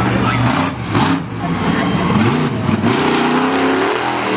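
Monster truck engine revving, its pitch swinging up and down, then holding at a higher steady pitch from about three seconds in.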